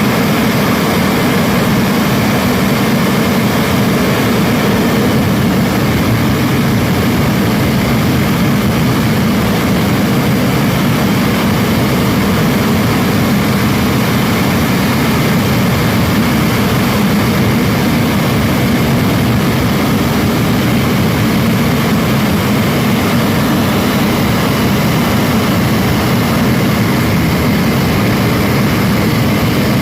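English Electric Lightning's twin Rolls-Royce Avon turbojets running at high power with reheat lit: a loud, steady jet noise that holds level without rising or falling.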